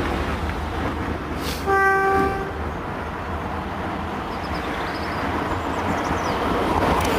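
Class 60 diesel locomotive approaching under a steady engine rumble, sounding its horn once, a single note held for under a second about two seconds in. The train noise grows louder toward the end as it nears.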